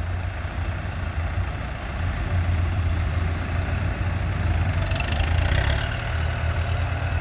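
Heavy diesel engine running steadily, with a brief patch of higher-pitched noise about five seconds in.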